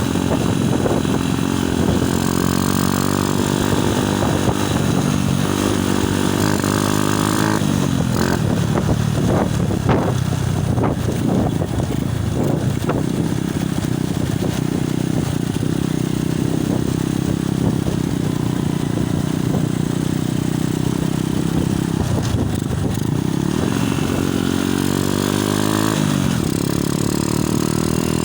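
Motorcycle engine running under way, its pitch climbing and dropping several times as the rider works the throttle and gears. Loud wind buffets the phone's microphone, gusting in choppy bursts about a third of the way in.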